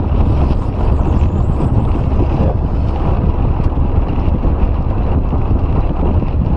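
Steady, loud low rumble with wind noise buffeting the microphone.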